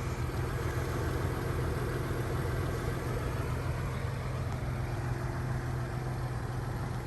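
A car engine idling steadily, a low even hum with no change in speed.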